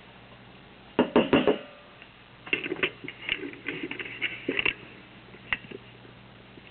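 Hard parts being handled: a quick cluster of loud knocks about a second in, then a run of lighter clicks and taps, and a single tap near the end.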